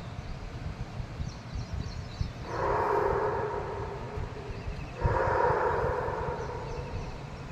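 A horn sounds two long, steady blasts, the second starting right after the first, over a low rumble.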